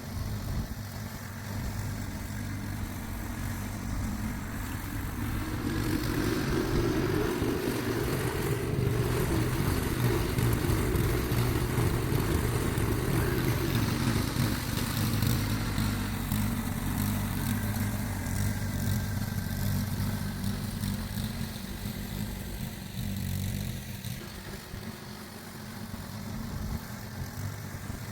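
An engine running steadily, growing louder about six seconds in and easing off again after about twenty seconds.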